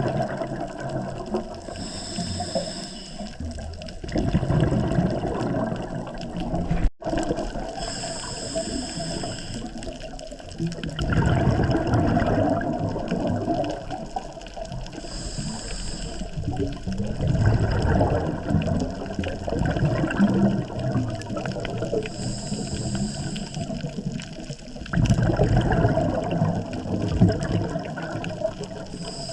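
Scuba diver breathing through a regulator underwater: a short hiss of each inhalation, then a longer burst of exhaled bubbles gurgling and rushing, repeating about every seven seconds, four times.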